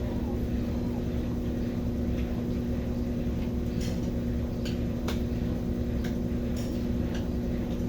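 Brastemp BWK17 17 kg washing machine spinning, a steady motor hum with a low rumble, and a few faint clicks scattered through the middle.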